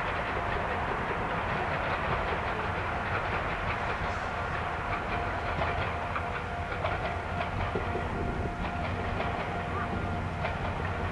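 Chichibu Railway train running on the track, a steady rumble with its wheels clicking over the rail joints; the clicks come more often in the second half.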